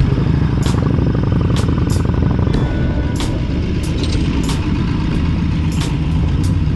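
Motorcycle engine running steadily at road speed, a low drone, with sharp clicks every second or so.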